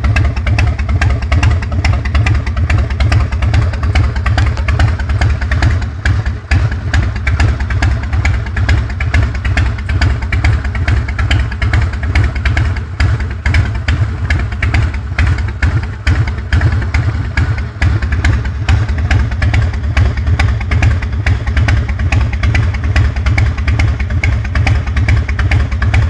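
2003 Harley-Davidson Heritage Softail's Twin Cam 88B V-twin engine running steadily without revving, a continuous rapid pulsing of exhaust beats.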